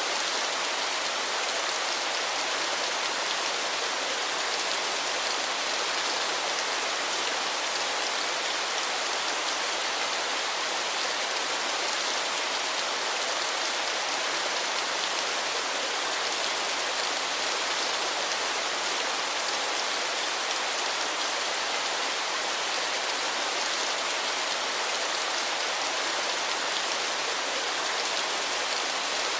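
Waterfall: a steady, even rush of falling water, mostly high hiss with little low rumble.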